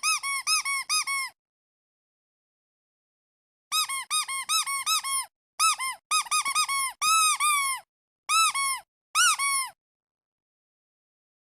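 Squeaky duck toy squeezed over and over, each squeeze a short, high squeak that rises and falls in pitch. A quick run of about six squeaks comes at the start, then a pause of a couple of seconds, then longer runs of squeaks from about four seconds in until near the end.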